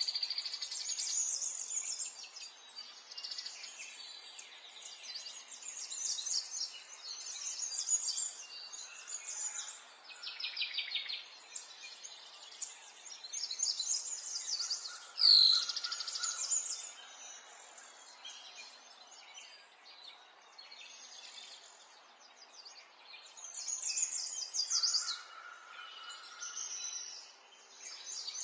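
Many small birds singing and chirping together in rapid trills over a faint steady hiss, with one louder sweeping call about halfway through.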